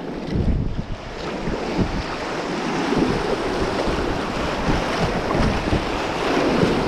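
Whitewater rapids rushing steadily, with irregular low buffeting of wind or water on the microphone.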